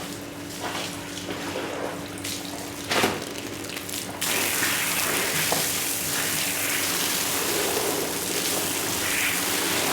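Water spraying onto a wet rug: quieter running and splashing water with a single knock about three seconds in, then a strong spray that starts abruptly about four seconds in and goes on as a steady hiss.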